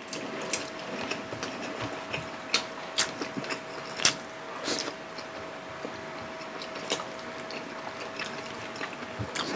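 Close-up eating sounds: wet chewing and lip smacks with scattered short clicks as mouthfuls of fried milkfish and rice are eaten by hand. A faint steady hum sits underneath.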